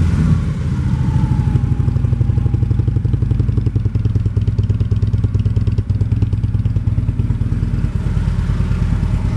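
Harley-Davidson Road Glide Special's V-twin idling through aftermarket Vance & Hines exhaust pipes, a steady, even pulse with throaty low notes, shortly after starting.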